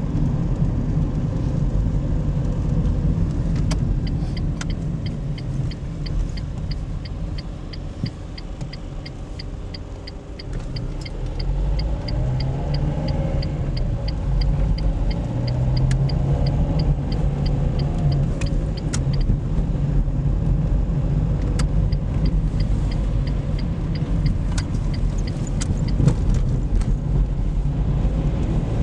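Engine and road noise heard from inside a moving car, dipping for a few seconds near the middle and then rising again as the car gathers speed. Over it, a turn-signal indicator ticks at an even, quick rate for about fifteen seconds from about four seconds in, and briefly again later.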